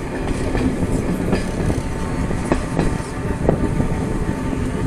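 Renfe Serie 442 electric multiple unit running along the line: a steady rumble with a constant hum, and a few irregular clicks and knocks from the wheels on the track.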